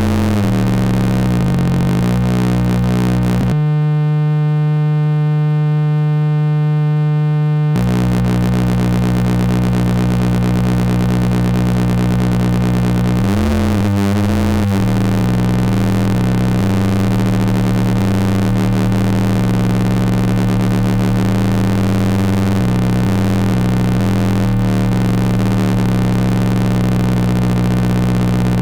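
Square-wave oscillators of a Jupiter Storm-style eurorack noise module making a steady, dense buzzing drone of many clashing tones. About four seconds in it changes to a cleaner, evenly pitched buzz for about four seconds, then returns to the dense drone. There are brief pitch swoops around halfway and again near the end.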